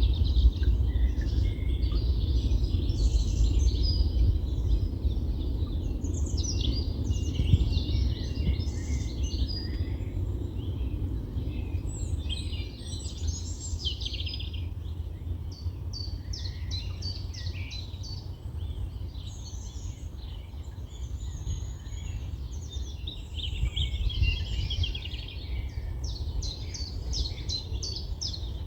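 Several small birds singing and calling, with trills and fast runs of repeated notes, over a steady low rumble of wind on the microphone.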